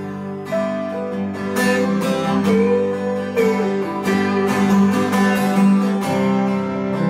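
Acoustic guitar strumming a steady accompaniment, with a lead line of held, slightly bending notes over it: an instrumental fill between sung lines of a blues song.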